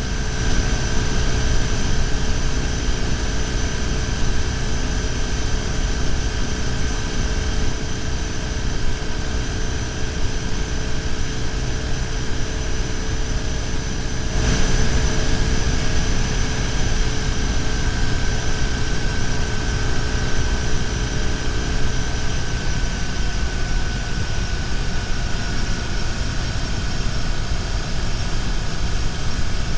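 BMW R1150GS air/oil-cooled boxer-twin engine running at a steady cruise, mixed with wind and road noise at a bike-mounted camera. It gets a little louder about halfway through, and the engine note then eases down slightly.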